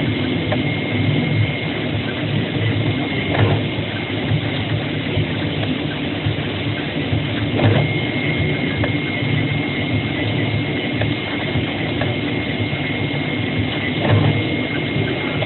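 AOKE CNC flatbed cutting plotter running as it cuts a paper shoe pattern: a steady mechanical whirr with a constant high whine, and a short knock three times, about 3, 8 and 14 seconds in.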